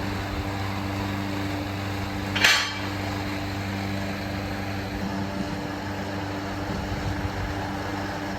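Steady hum of running workshop machinery, with one sharp metal clank about two and a half seconds in.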